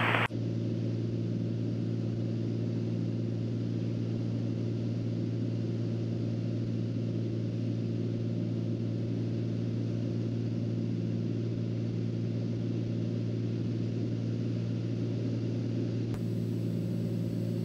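Steady drone of a turbocharged Cessna 206's six-cylinder piston engine and propeller in level cruise, heard inside the cabin: a strong low hum with a few steady tones above it, unchanging throughout.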